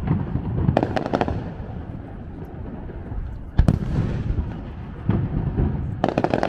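Fireworks display: aerial shells bursting with sharp bangs and crackles. A quick cluster of cracks comes about a second in, a single loud bang about halfway, and another rapid run of cracks near the end, with a steady low rumble between.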